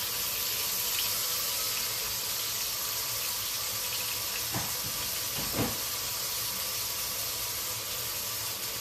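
Stuffed chicken breast frying in hot oil in a skillet, a steady sizzle, with a soft thump a little past the middle.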